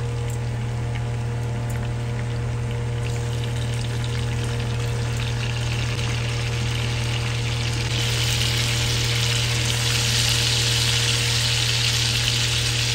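Salt-and-turmeric-coated prawns sizzling as they fry in hot oil in a nonstick frying pan, the sizzle getting louder and brighter about eight seconds in as the pan fills with prawns. A steady low hum runs underneath.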